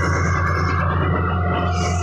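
Massey Ferguson 375 tractor's diesel engine running steadily under load while hauling a heavily loaded sugarcane trolley, with background music over it.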